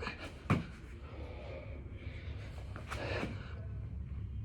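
Hard, gasping breaths of a man doing burpees, with a sharp thud about half a second in, over a steady low hum.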